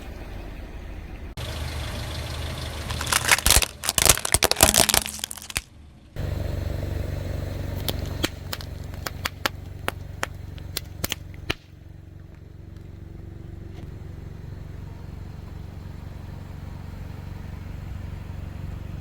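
A car tyre rolling over and crushing crunchy objects: a few seconds of loud crackling and crunching near the start. Then the car's engine idles with scattered sharp cracks, which stop after about eleven seconds, leaving a quieter steady idle.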